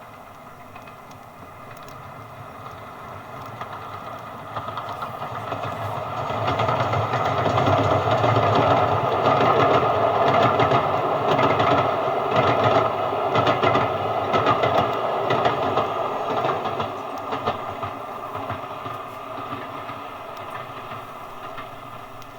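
A train passing: it builds up over several seconds, is loudest for about ten seconds with a rapid clatter of wheels over the rail joints, then fades away.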